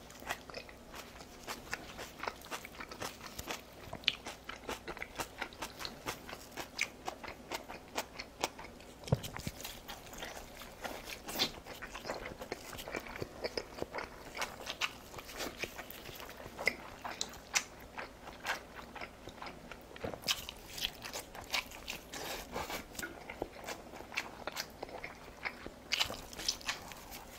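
Close-miked eating sounds: a person biting and chewing a fried-egg roll, a dense, irregular run of small wet clicks and crunches.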